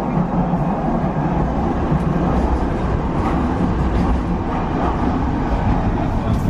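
Docklands Light Railway electric train running at speed, heard from inside the carriage: a steady rumble of wheels on rails.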